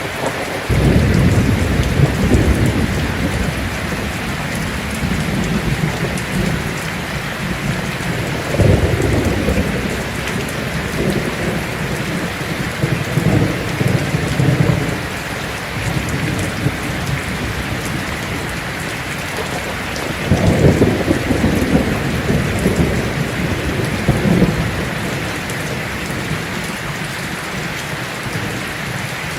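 Heavy rain falling steadily on a tin roof, with thunder rumbling low several times: about a second in, around the middle, and again near the two-thirds mark.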